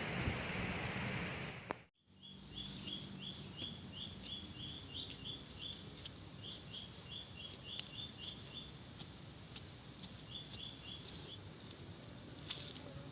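A steady rushing hiss that cuts off abruptly about two seconds in. Then a bird gives runs of short, high chirps on one pitch, about three a second, in three bouts with short pauses between them.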